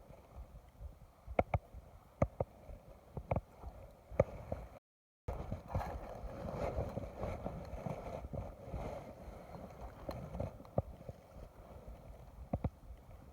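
Water sloshing and lapping against a boat hull, with a handful of sharp knocks and clicks in the first few seconds and a couple more near the end. The sound cuts out completely for a moment about five seconds in.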